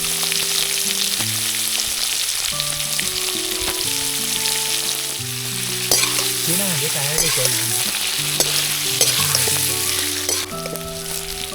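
Paneer cubes frying in hot oil in a pan, sizzling steadily while being stirred, with small scraping clicks of the spatula. The paneer is browning.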